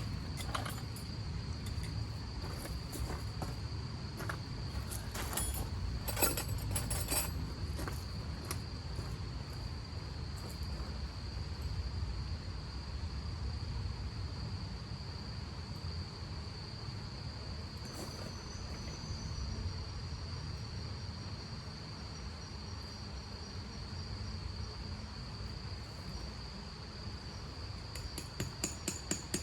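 Cricket trilling steadily on one high pitch, over a low rumble; a few sharp clicks and taps about six seconds in and again near the end.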